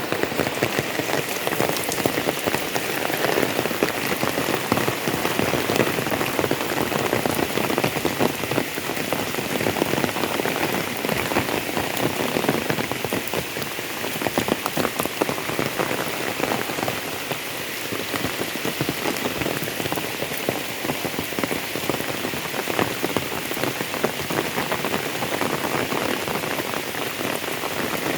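Steady rain falling, a dense patter of countless drops striking surfaces.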